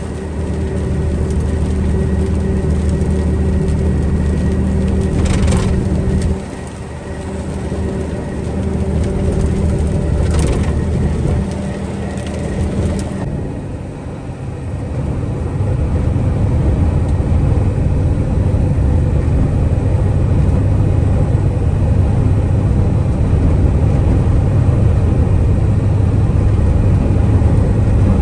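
Box truck's engine running with a steady low drone, with a couple of brief clatters in the first half. From about halfway the engine noise turns deeper and louder as the truck gets under way.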